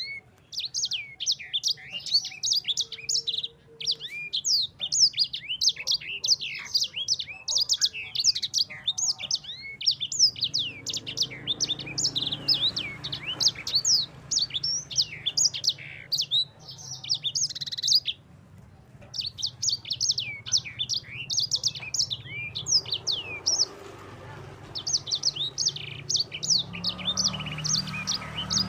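Yellow-fronted canary (Mozambique canary, 'sanger') singing a long, fast rolling song of high chirps and trills, with one short pause about two-thirds of the way through.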